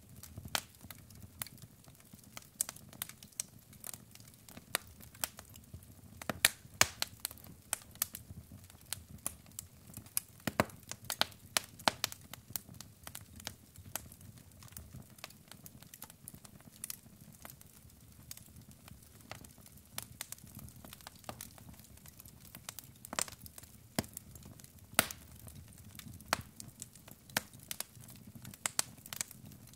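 Wood fire crackling: irregular sharp pops and snaps from burning logs over a faint low hiss.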